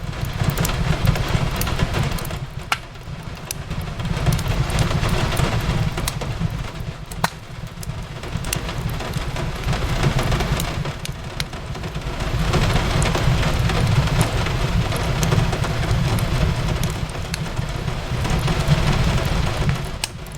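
Steady rain on a window mixed with the scattered sharp crackles of a wood fire, over a low rumble that swells and eases every several seconds.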